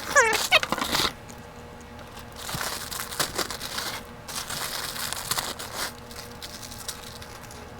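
Plastic packaging crinkling and rustling in uneven stretches as a LEGO set's box and parts bags are handled and opened.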